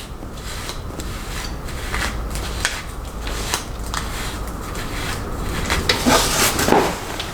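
A hairbrush stroked repeatedly through freshly set curls, with short rasping strokes about twice a second, as a roller set is brushed out.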